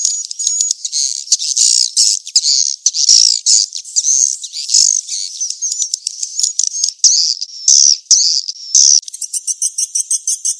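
Edible-nest swiftlets twittering in dense, loud, high-pitched chirps: a swiftlet-farming lure call of the mating-chase type. About nine seconds in, the twittering gives way to a fast, even run of short chirps.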